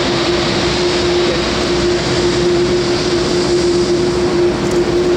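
Boeing 747-8F's four GEnx-2B jet engines running at low taxi power: a steady rush of noise with one constant hum-like tone running through it.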